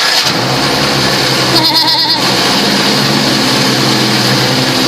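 High-pressure water spraying against the car in a PDQ ProTouch automatic car wash's wheel-washing stage, a loud steady hiss over a steady machine hum.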